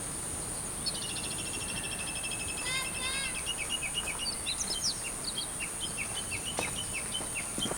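Wild birds singing: a fast trill of rapid repeated high notes about a second in, then scattered chirps and short down-sweeping calls.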